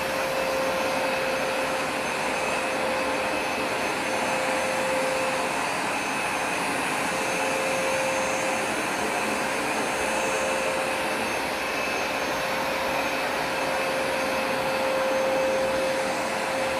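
Hoover Smartwash Pet carpet cleaner running: a steady suction rush with a whine that drops out briefly twice.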